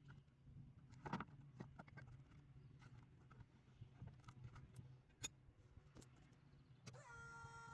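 Near silence: a faint low hum with a few soft clicks, and a faint held tone beginning near the end.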